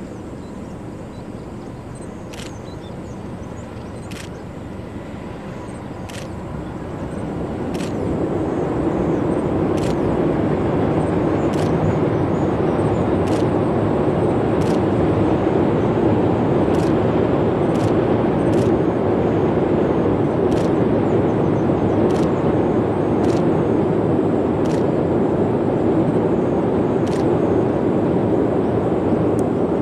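Logawa passenger train running, heard from on board: a steady rumble that grows louder about eight seconds in, with faint clicks every second or two.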